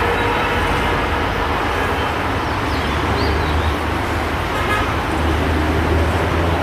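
Steady vehicle rumble with a constant low hum, holding at an even level throughout.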